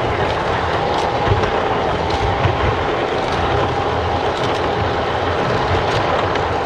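G-scale garden railway model train running along the track: a steady electric motor whine over a rumble of wheels on rail, with scattered light clicks.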